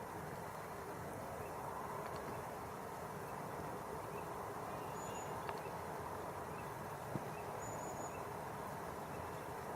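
Steady rush of flowing river water. A few faint, short, high chirps come through it about halfway and near the end.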